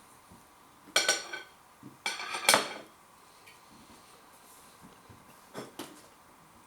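Cutlery clinking against crockery: a few sharp ringing clinks in the first three seconds and a fainter one near the end.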